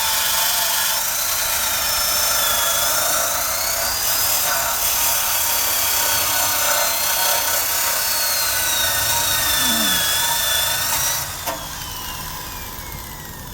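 Electric drill spinning a wire brush against the Honda Cub's metal undercarriage, a steady loud grinding with a whine that wavers in pitch as the brush loads and unloads. About eleven seconds in it is switched off and winds down with a falling whine.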